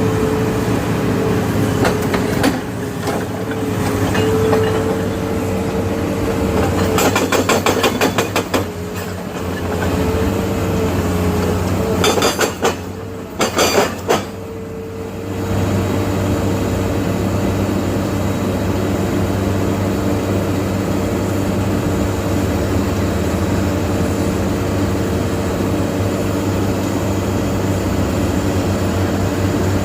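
A heavy engine running steadily, with two spells of rapid metallic clatter, about seven and twelve seconds in.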